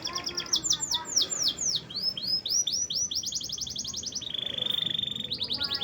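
Domestic canary singing a fast song of repeated notes: short quick notes, then a run of downward-sweeping notes, a steady buzzy trill about four seconds in, and quick notes again near the end.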